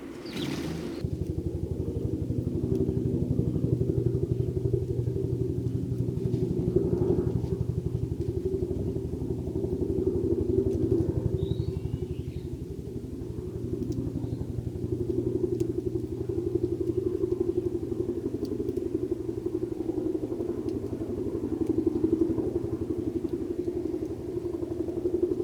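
A motor vehicle's engine running steadily nearby, a low rumble with an even, rapid pulsing like an idle. A short burst of noise right at the start, and a faint bird chirp about halfway through.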